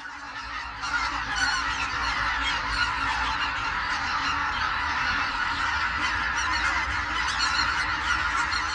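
A large flock of wild geese honking, with many calls overlapping into a dense chorus that swells about a second in.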